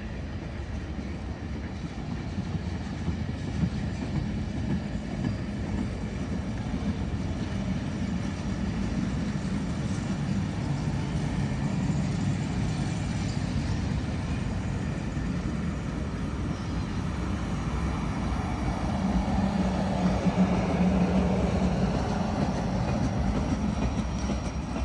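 Union Pacific 4014 Big Boy steam train running past on the tracks: a steady low rumble that grows a little louder in the last few seconds.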